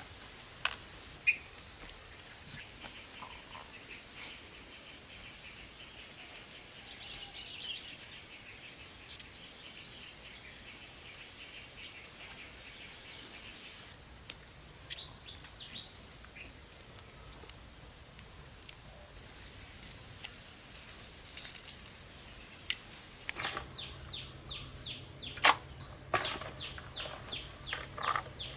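Small birds chirping now and then over a faint steady outdoor background. About three-quarters of the way through, the background changes and a run of sharp taps and knocks starts, louder than the birdsong.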